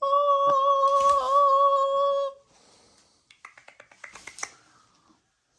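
A single held note, steady in pitch with a slight wobble midway, lasting a little over two seconds. It is followed a second later by a quick run of about a dozen sharp clicks.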